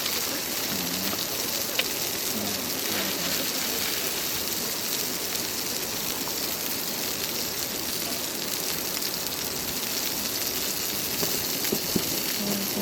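Frozen fried rice frying in a pan with a steady sizzle.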